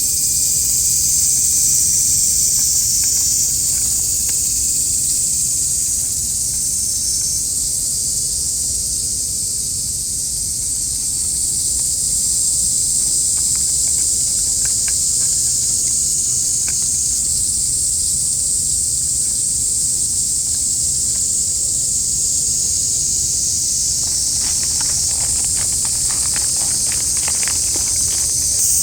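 Loud, steady, high-pitched insect chorus filling the background, with a low rumble beneath it. A scatter of small clicks comes in near the end.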